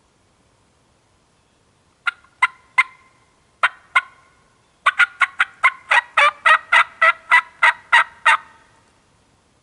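Series of close, loud turkey yelps: three single notes, then two, then a quick run of about fourteen yelps at roughly four a second that stops near the end.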